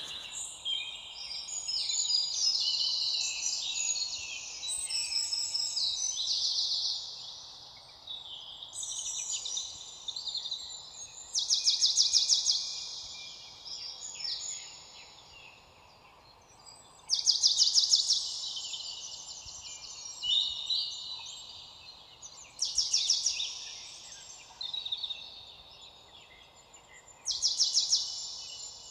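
Several songbirds singing over one another, with a loud, rapid trill that recurs about every five seconds.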